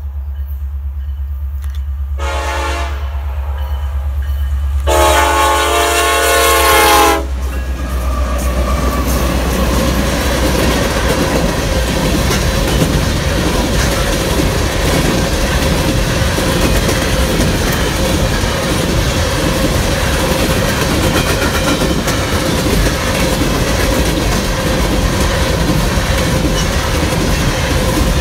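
BNSF diesel freight train approaching: the locomotives' hum grows louder, then the air horn sounds a short blast and a longer, louder one. After that the train passes close by and the cars rolling over the rails make a steady loud noise.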